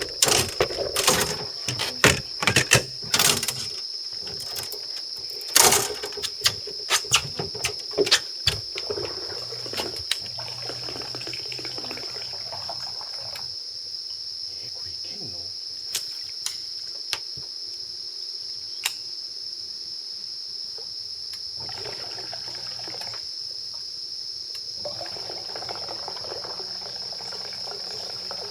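A quick run of sharp knocks and clicks over the first ten seconds, then only a few single ticks and some soft hiss, all over a steady high whine.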